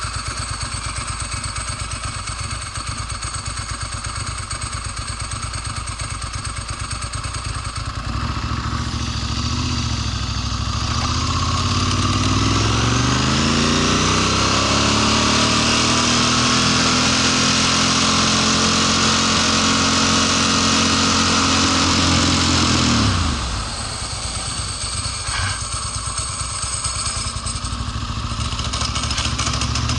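Ducati Monster S4 L-twin engine idling, then revving up and held at high revs for about ten seconds before dropping suddenly back to idle, and picking up again near the end. The owner reports that this bike sputters and cuts out when held at about 7,000 rpm in first gear.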